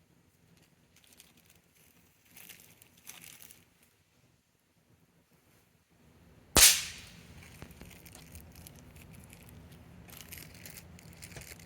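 A single sharp, loud crack of TNT Fireworks snappers ('Exploding Reindeer Poop') going off, about two thirds of the way in. Faint paper rustling comes before and after it.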